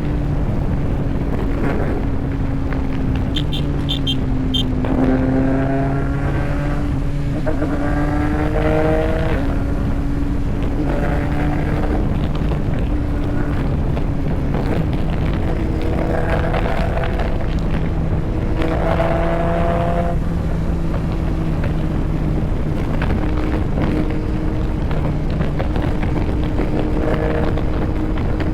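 Yamaha MT-09's three-cylinder engine running on the move under steady road and wind noise. Its pitch rises again and again as the bike accelerates through the gears.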